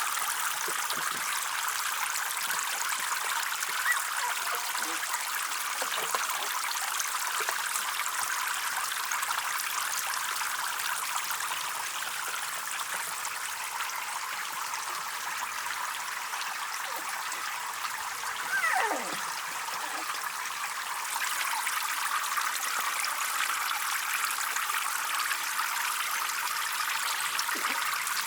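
Water trickling and running steadily into a small pond, with a brief falling squeal about two-thirds of the way through.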